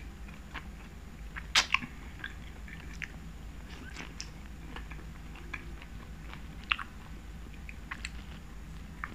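Close-miked chewing and wet mouth sounds of someone eating tteokbokki, chewy rice cakes and sausage in a thick sauce, with scattered soft clicks and smacks. A sharper pair of clicks about one and a half seconds in is the loudest moment, with another near the end.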